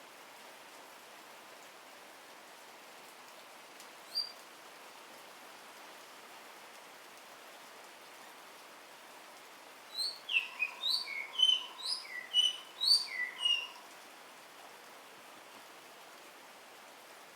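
Steady rain falling, with a Javan myna (jalak kerbau) giving one short call about four seconds in and then a few seconds of rapid, varied chattering song just past the middle.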